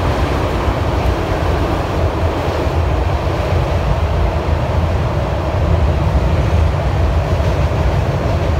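Train rumbling past: a steady, continuous low rumble with no breaks.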